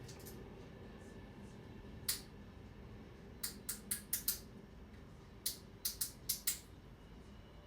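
Sharp clicks: a single click about two seconds in, then two quick runs of about five clicks each, over a low steady hum.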